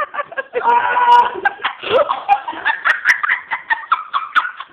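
People laughing hard, a fast run of cackling laugh pulses.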